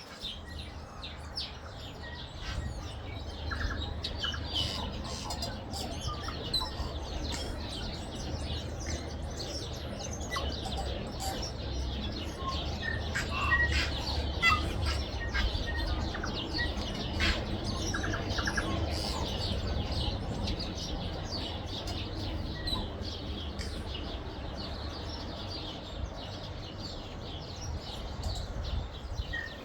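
Many small birds chirping continuously in quick, overlapping calls, over a low steady rumble.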